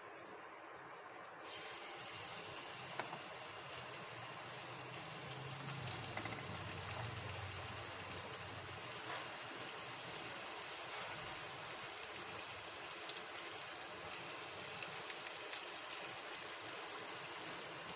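Semolina-coated white snapper sizzling in hot coconut oil in a frying pan. The sizzling starts suddenly about a second and a half in as the fish goes into the oil, then runs steadily with small crackling pops.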